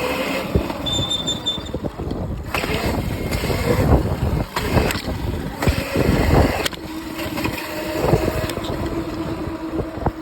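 Riding noise of a small modded Razor electric dirt bike: wind buffeting the microphone in gusts, with bumps and knocks. A steady electric motor whine comes in during the last few seconds.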